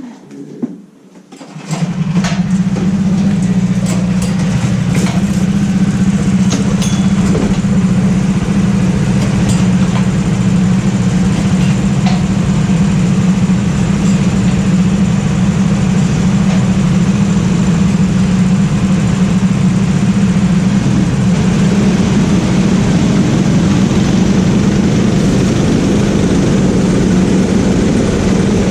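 A rental go-kart's engine starts up about two seconds in, then runs loud and steady at a nearly unchanging pitch.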